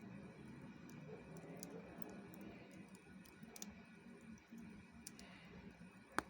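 Small campfire crackling faintly: scattered sharp ticks and pops, with one louder pop near the end.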